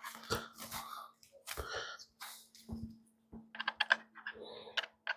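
Small plastic parts of an RC helicopter model being handled and fitted by hand: irregular light clicks and rustling, with a quick run of sharp clicks a little past halfway.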